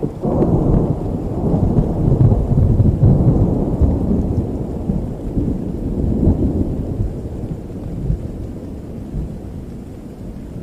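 A long rolling thunder rumble over steady rain. It swells sharply just after the start, peaks a few seconds in, surges again about six seconds in and dies away toward the end.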